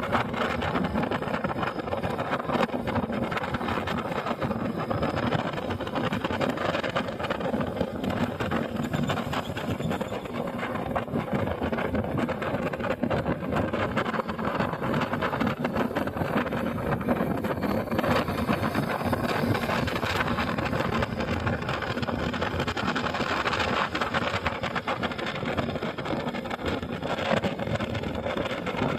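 Motorcycle engine running steadily while riding, a constant hum under road and wind noise.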